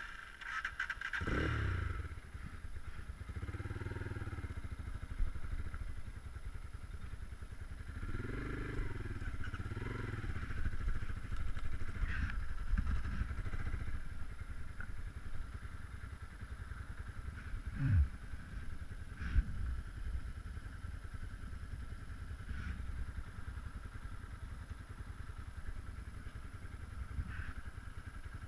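Geon Scrambler 250 motorcycle engine starting about a second in, then running and revving up several times. There are two sharp clunks about two thirds of the way through.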